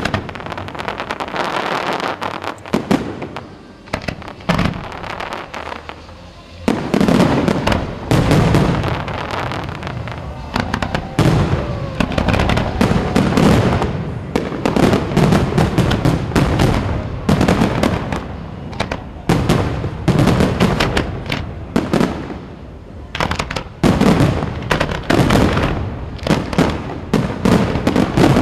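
Fireworks display: a rapid barrage of bangs and crackles that thins out for a few seconds early on, then builds again into a dense, continuous volley.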